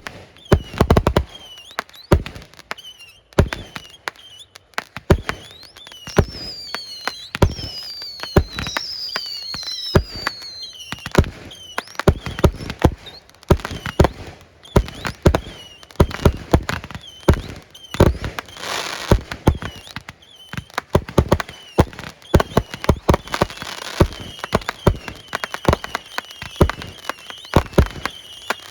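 Aerial fireworks going off in quick succession: a steady barrage of booming shell bursts. Several whistles fall in pitch about a quarter of the way in, and there are crackling bursts about two-thirds through and again a few seconds later.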